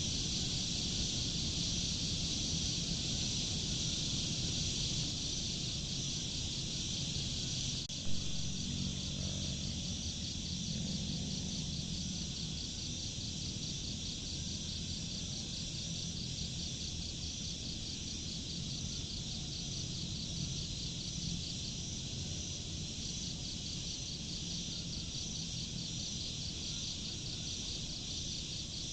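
Crickets chirping in a steady, evenly pulsing chorus over a low steady drone, with a single sharp click about eight seconds in.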